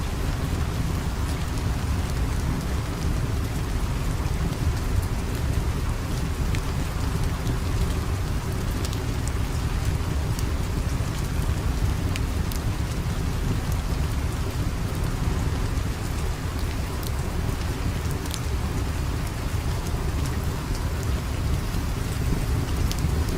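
Steady rain with a deep, constant low rumble underneath. Scattered sharp crackles of a wood fire are heard throughout.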